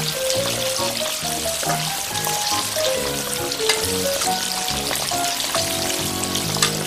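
Battered tomato slices deep-frying in hot oil: a steady crackling sizzle dotted with small pops. A gentle background melody with bass notes plays over it.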